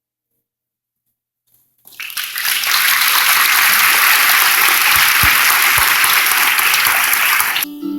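Audience applauding, a dense steady clapping that starts about two seconds in and gives way abruptly to piano music near the end.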